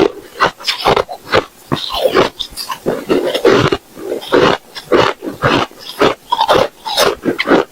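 Ice being chewed close to the microphone: loud, crisp crunches about two a second, crowding together for a moment partway through.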